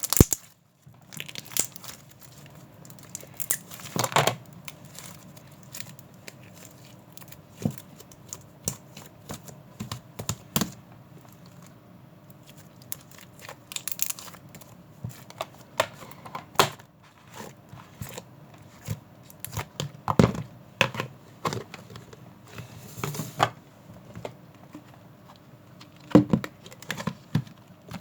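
Irregular clicks, taps and crinkling rustles, as of small objects or packaging being handled.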